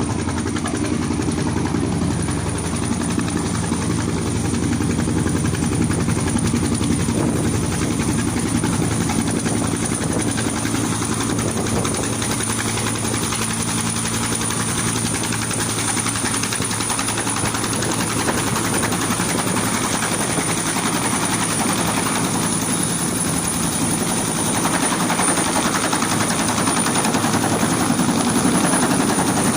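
Helicopter running steadily, a continuous rotor and engine drone with a steady high whine, growing slightly louder near the end.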